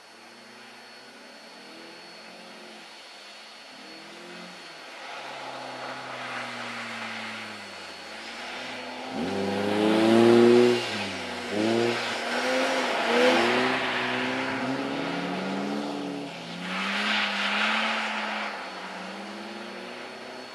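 Car engines revving up and down as cars slide through the corners of a snowy ice track. The engine note builds from faint to its loudest about halfway through as one car comes close, and swells again shortly before the end.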